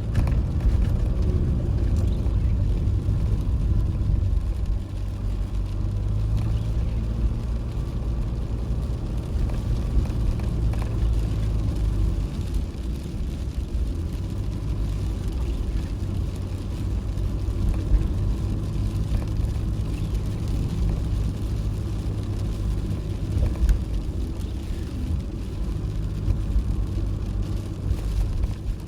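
Toyota HiAce van driving: a steady, loud, low rumble of engine and road noise.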